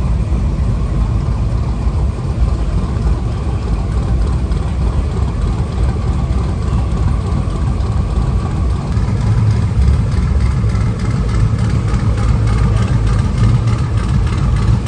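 A truck engine idling steadily, growing a little louder about nine seconds in.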